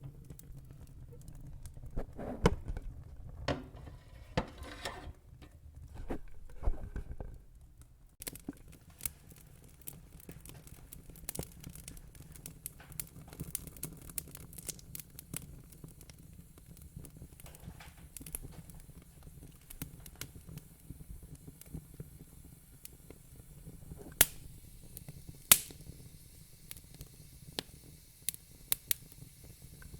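Fire crackling: irregular small pops and snaps over a low steady hiss, with two sharper, louder pops about three-quarters of the way through.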